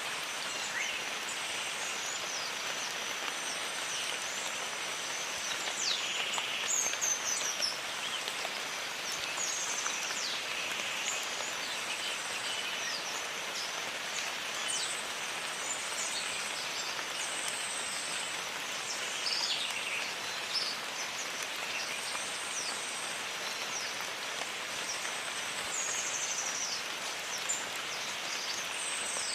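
Steady rain in a jungle, with short, high, falling bird calls scattered over it and a thin, continuous high-pitched tone beneath.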